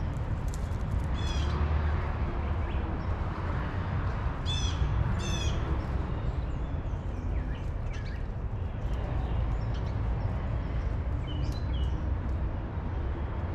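Wild birds calling outdoors: a few short, high calls about a second in and twice more around the middle, with fainter calls later, over a steady low rumble.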